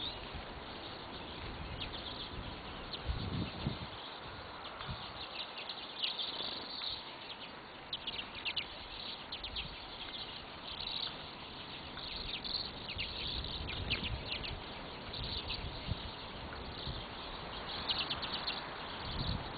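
Small birds chirping: many short, high chirps in quick clusters over a steady background hiss, with a few low thumps.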